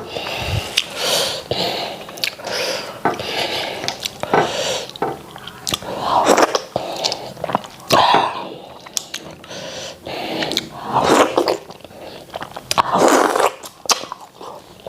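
Close-up wet chewing and lip-smacking of a person eating starch and white soup, with irregular sharp smacks and short slurping bursts.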